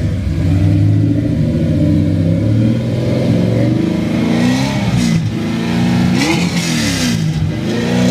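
Chevrolet Corvette C3's V8 engine running steadily at low revs, then revved up and down several times in the second half as the car pulls away.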